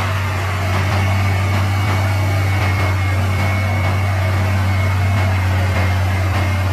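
Heavy diesel engine running steadily with a deep, even drone, and a faint high whine above it.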